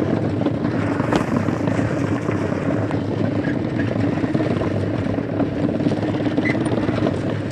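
Inflated balloons fitted to a bicycle wheel, beaten rapidly by the turning spokes as the bicycle is ridden, making a steady, fast fluttering buzz that imitates a Royal Enfield Bullet motorbike engine.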